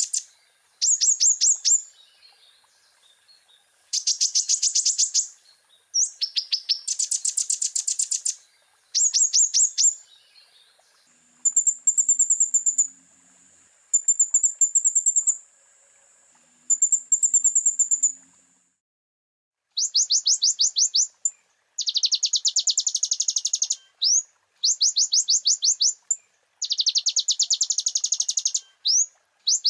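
Kolibri ninja sunbird (konin) singing: loud phrases of rapid, high, rising notes, each lasting one to two seconds with short pauses. Between them, about a third of the way in, come several thinner, steadier high trills.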